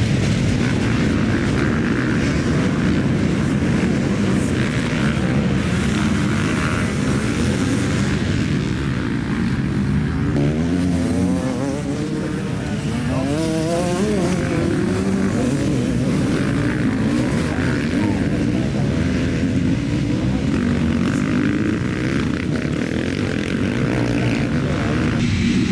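Motocross bike engines racing, with the revs rising and falling repeatedly as the riders accelerate and shift, most clearly about halfway through.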